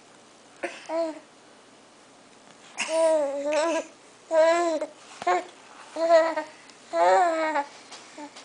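Baby babbling: a string of high-pitched vocal sounds, each under a second, with short pauses between them, growing louder after the first few seconds.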